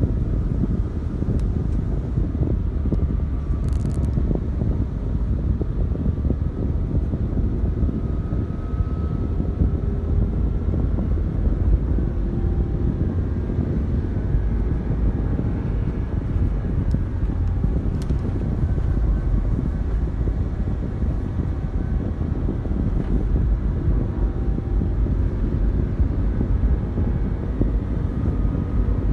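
Steady wind buffeting on the microphone over a vehicle's engine, whose faint pitch wavers up and down as it moves along.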